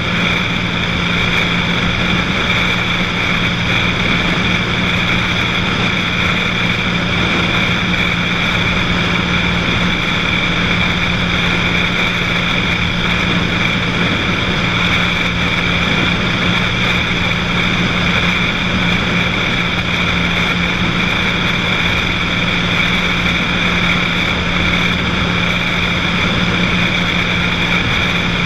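Cessna 182's piston engine and propeller at a steady drone in flight, with no change in pitch or level, over a wash of air noise.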